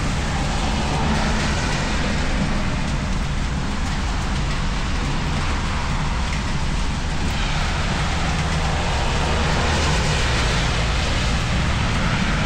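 Steady rain falling, an even hiss with a low rumble underneath that swells a little twice.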